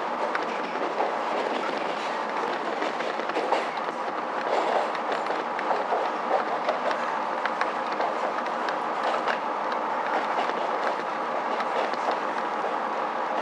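Diesel railcar heard from inside the carriage while running along the line: a steady rumble of the wheels on the rails, with scattered clicks over the track.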